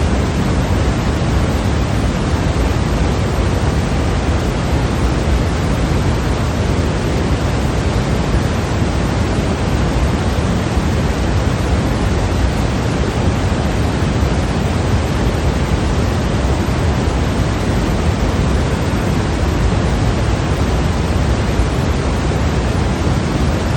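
Continuous white-noise sleep sound: an even, unbroken hiss that never changes, with more weight in the deep end than the high end.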